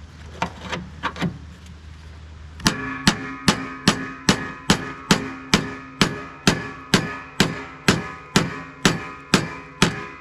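Hammer blows on the lawn tractor deck's bent metal pulley bracket to straighten it. A few irregular taps, then steady strikes at a little over two a second, each leaving a ringing metallic tone.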